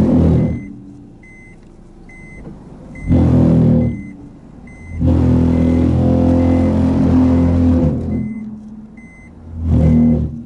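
Honda N-BOX+ reversing down a steep slope: a loud, low groaning drone comes and goes in four bursts, the longest about three seconds. It is the abnormal noise, felt with vibration, that this car makes when backing downhill after a car wash. The car's reverse warning beeper sounds steadily throughout, a short high beep about every half second or so.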